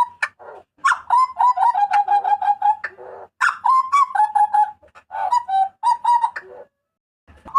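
Butcherbird (burung jagal papua) giving loud, ringing calls in three phrases of quick, repeated notes around one pitch, with a short pause near the end.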